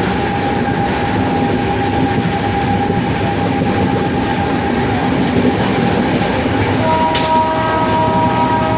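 Indian Railways WAP-7 electric locomotive running: a steady rumble of wheels and running gear with a constant whine over it. About seven seconds in, a horn of several tones starts sounding and holds.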